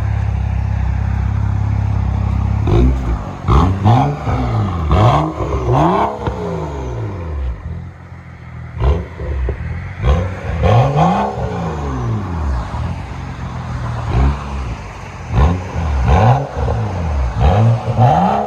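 Straight-piped BMW 535i turbocharged straight-six, with resonator and rear muffler deleted and catalytic converters kept, holding a steady drone for a few seconds and then blipped through a series of quick revs that rise and fall. The revs come in three clusters with short lulls between.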